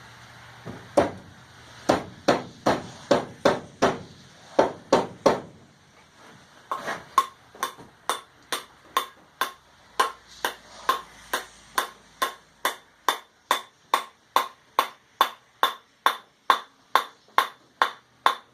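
Hammer blows driving a wedge into the top of a hickory handle to lock a forged cross peen hammer head in place, about two blows a second. A brief pause comes about five seconds in, then a long even run of blows, each with a ringing ping.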